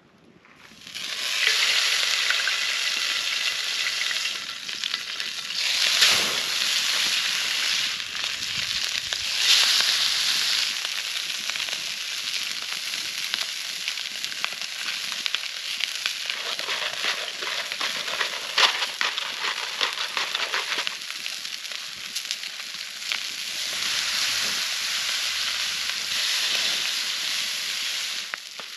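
Food sizzling and frying in a cast-iron skillet over a campfire, starting about a second in as the food goes into the hot pan, a steady crackling hiss that swells louder a couple of times.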